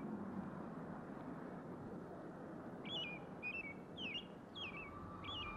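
A small bird chirping: about five short, quick chirps that glide up and down, starting about halfway in, over a steady faint hiss of old film sound.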